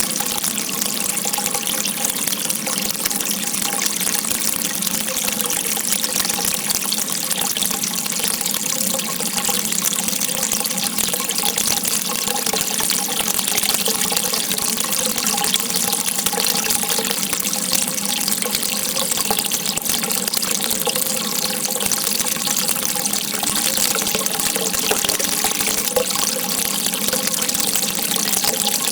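Water rushing steadily in a continuous stream, unbroken for the whole stretch.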